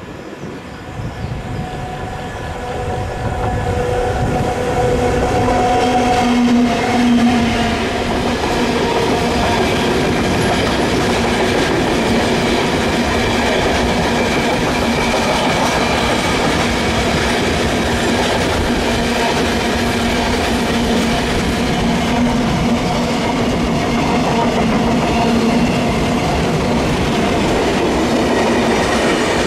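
Class 70 diesel locomotive 70803 passing with a train of hopper wagons: its engine running, then the wagons rolling by with a clickety-clack of wheels over the points and a steady rumble. The sound builds over the first few seconds as the locomotive nears, then holds steady.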